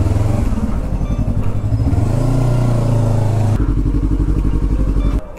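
Yamaha MT-03 motorcycle engine running as the bike rides off, its pitch stepping up and down as it changes gears. The sound cuts off abruptly near the end.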